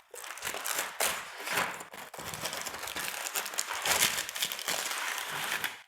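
Packaging crinkling and rustling as ceiling fan blades are unwrapped and pulled out of their box, with a few louder swells of crackle, cutting off abruptly at the end.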